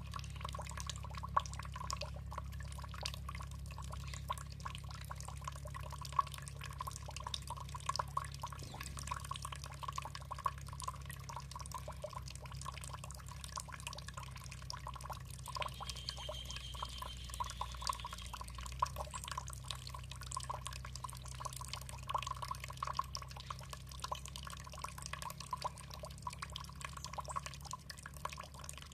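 Water dripping and trickling: a steady patter of many small drops over a low, even hum.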